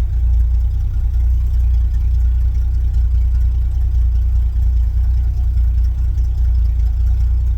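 1972 Chevy C10 pickup truck's engine running steadily, a constant low rumble with no revving.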